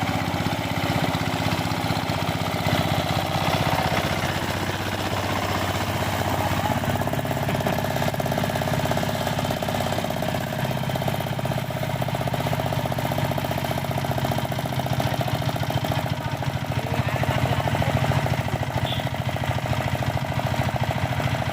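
Single-cylinder diesel engine of a power tiller (two-wheel tractor) running with a steady, knocking putter; its note shifts about six seconds in.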